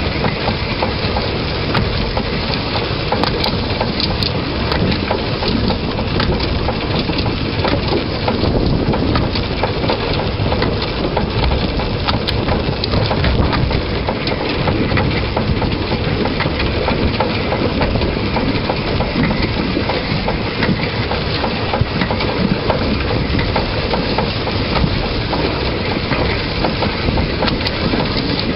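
Narrow-gauge train running along the line, heard from the locomotive: a continuous rattle and clatter of wheels and running gear on the rails over a steady rumble.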